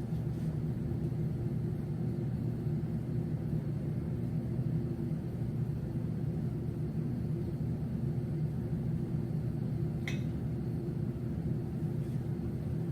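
Blowtorch flame running with a steady low rumble, heating a homemade Stirling engine. A short click about ten seconds in.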